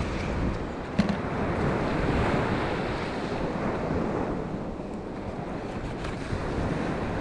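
Sea surf washing on the beach with wind buffeting the microphone, a steady rushing noise; one short click about a second in.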